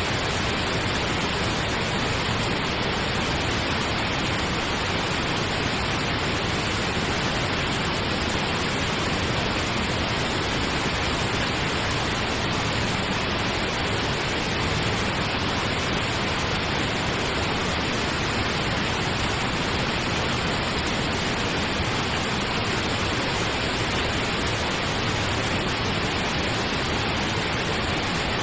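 Steady pink noise, an even hiss spread from low to high pitches, unchanging throughout.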